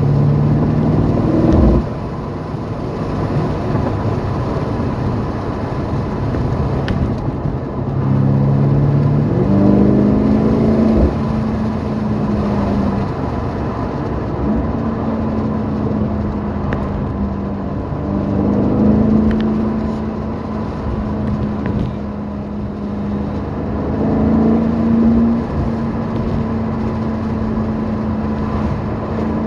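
BMW M5 Competition's twin-turbo V8 heard from inside the cabin while driving. The engine note swells with several bursts of acceleration, the revs climbing sharply about ten seconds in and dropping back as the transmission shifts.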